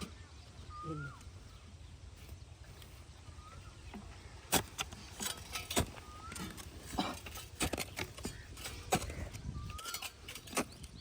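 A bird's short rising-and-falling chirp repeats about every three seconds over a low rumble. From about halfway in, irregular sharp knocks and clicks come in and are the loudest sounds.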